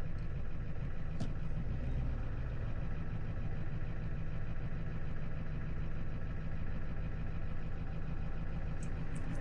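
Tow truck engine running at low revs, a steady low drone, with one faint click about a second in.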